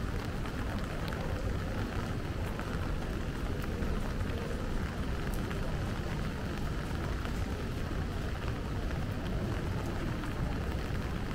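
Steady rain falling in a city street, with scattered drops ticking over a constant low rumble.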